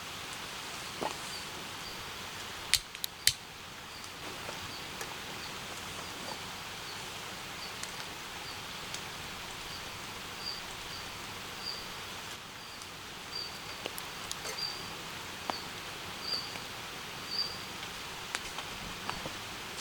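Outdoor ambience: a steady hiss with a faint high chirp repeating about twice a second, and scattered sharp clicks, the loudest a pair about three seconds in.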